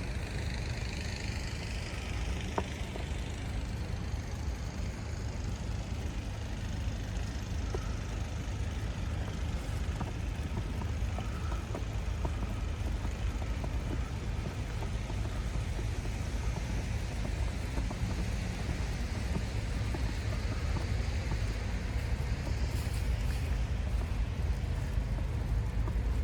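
City street ambience: a steady low rumble of traffic, with a falling whine in the first couple of seconds.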